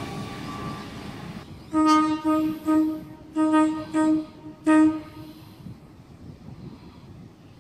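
Train horn sounding a quick series of about six short blasts at one pitch, between about two and five seconds in.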